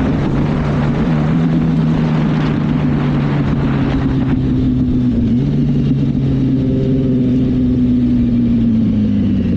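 Motorcycle engine running at steady revs while riding, with wind rush on the microphone that eases after about four seconds. Near the end the engine note drops as the bike slows.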